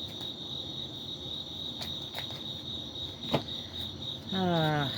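Crickets chirping in a steady, pulsing trill. There is a sharp click a little past three seconds in, and near the end a short hum from a person's voice, falling in pitch.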